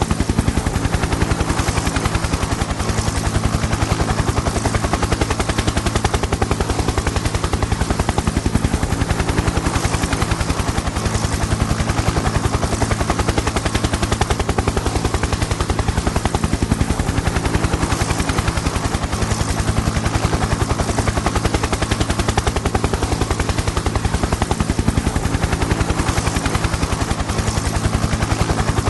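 Helicopter in flight: the rapid, steady chop of the rotor blades over a constant turbine drone.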